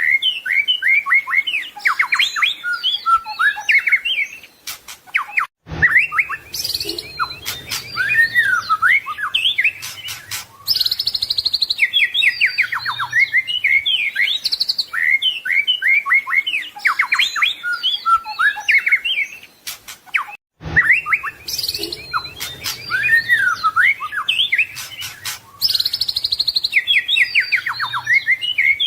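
White-rumped shama (murai batu) song: a fast, varied run of chirps, trills and whistles packed with imitated phrases. It breaks off briefly about six seconds in and again about fifteen seconds later, and the same sequence starts over each time: a looped training recording.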